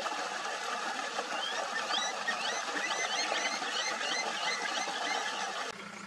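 A bird calling, a quick run of short rising and falling chirps in the middle of the stretch, over a steady rushing noise. Near the end the background cuts abruptly to a quieter one with a low hum.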